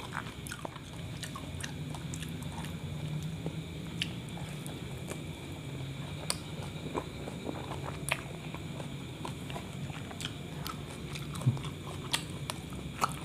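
A person chewing a mouthful of kebab wrap and biting into it again partway through, with scattered small mouth clicks over a steady low hum.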